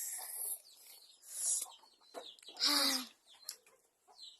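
Chickens clucking in short, scattered calls, with one louder pitched call about two and a half seconds in and a brief rustling burst just over a second in.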